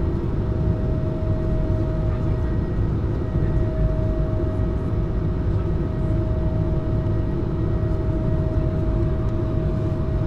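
Cabin noise of a Swiss CS300 (Airbus A220-300) jet airliner with its Pratt & Whitney PW1500G geared turbofans running: a steady low rumble with a steady whine over it.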